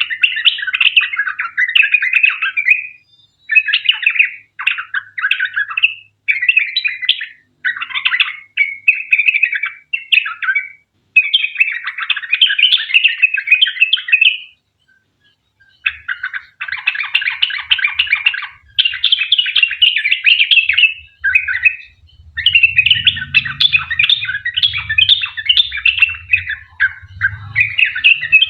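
Yellow-vented bulbul (trucukan) singing in bursts of rapid, chattering phrases one after another, with one longer pause a little past halfway.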